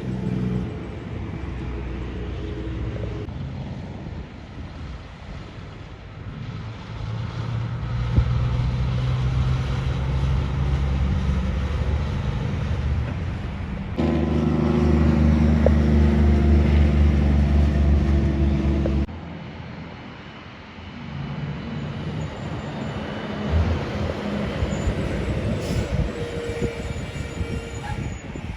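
Heavy trucks' diesel engines running as they drive by, in several clips that change abruptly, the loudest lasting about five seconds in the middle.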